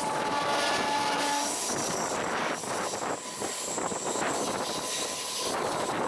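Train running with a steady loud rush of wheel and track noise. A horn sounds at the start and stops about a second and a half in.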